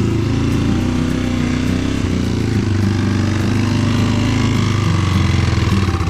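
Trail motorcycle engine running loudly under load, its pitch rising and falling as the throttle is worked.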